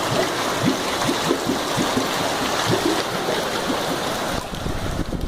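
Heavy downpour of rain and hail pelting down, a dense hiss with many low plops of drops falling into running water. Near the end, wind gusts rumble on the microphone.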